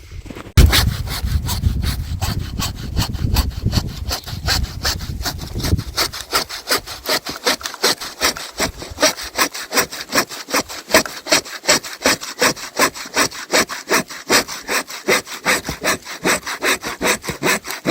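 Hand saw cutting through the wood of a wind-felled tree, with fast, even strokes at about four a second. A low rumble sits under the first few seconds.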